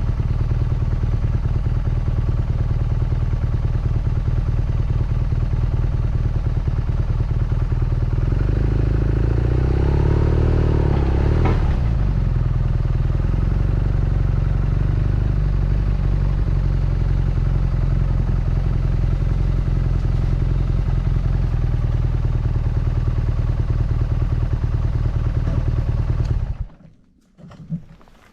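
BMW R nineT Scrambler's air/oil-cooled boxer twin running steadily at low revs, with a brief rise and fall in revs about ten seconds in. It cuts off abruptly near the end, as when the engine is switched off, leaving a few faint knocks.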